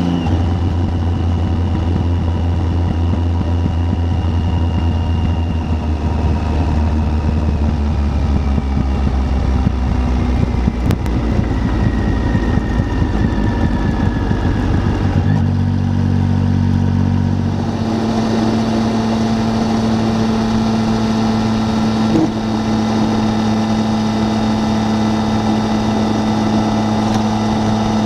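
Triumph Tiger 800's three-cylinder engine running under way, with wind buffeting the microphone. The engine note holds steady, then jumps to a different steady pitch about 15 seconds in and again about 18 seconds in.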